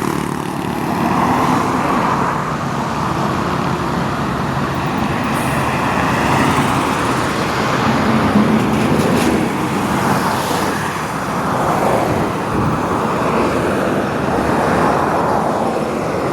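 Scania K400 bus running on the road, its diesel engine and road noise steady and loud, rising and falling gently in pitch.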